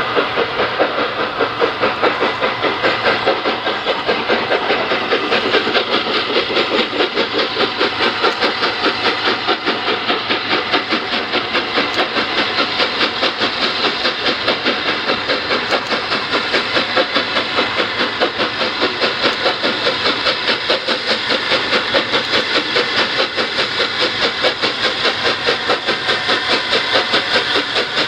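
LNER Class A3 4-6-2 Flying Scotsman's three-cylinder exhaust beating in a steady, rapid, even rhythm as the steam locomotive works along.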